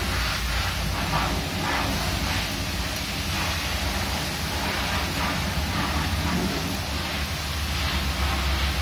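A wrench loosening and unscrewing the four 10 mm nuts of a motorcycle clutch pressure plate, giving faint scraping and clicking that come and go, under a steady noise haze and low rumble.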